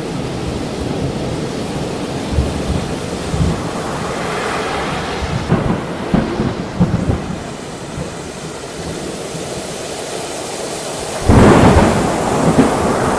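Thunderstorm: steady rain with thunder rumbling, and a sudden louder crash about eleven seconds in that carries on to the end.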